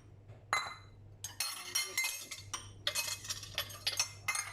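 A spoon clinking and scraping against a bowl again and again as garlic-ginger paste is worked into a soy sauce and honey marinade. The clinks ring briefly.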